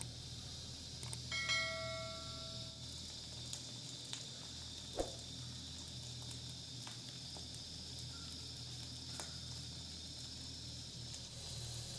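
Onions frying in oil in an iron wok: a faint, steady sizzle. About a second and a half in a short metallic ring sounds, and a few small clicks come as spice powder is shaken in from packets.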